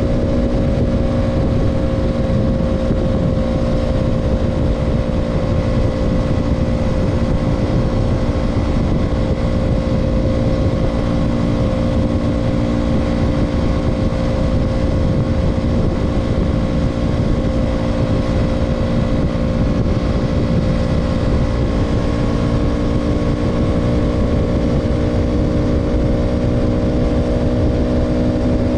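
KTM Duke 200's single-cylinder four-stroke engine running at a steady cruise, its pitch holding nearly constant. Wind rush on the microphone adds a rumble underneath.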